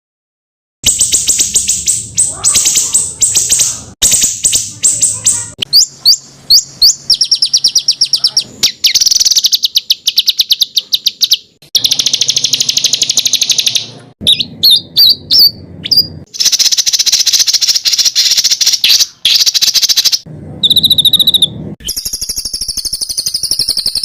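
Songbird song from a masteran (bird-song tutor) recording: loud, dense rapid-fire trills and harsh chattering bursts, the 'tembakan rapat dan kasar' style, joined by abrupt cuts every few seconds. It begins after a brief silence, about a second in.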